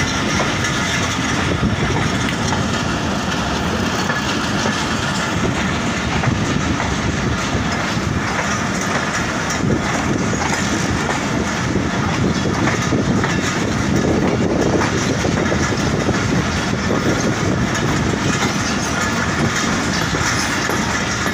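Passenger train running on the track, heard from on board: a steady noise of wheels on the rails with irregular clacks.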